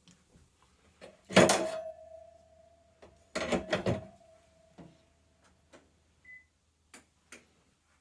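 Metal kitchenware clattering: a loud clank about a second and a half in, a second burst of clanks a couple of seconds later, and a metal pan or bowl left ringing with one steady tone for several seconds, then a few light clicks near the end.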